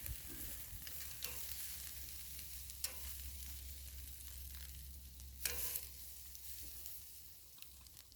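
Pork chops and vegetables sizzling on a grill over campfire coals, a steady hiss with a few sharp clicks.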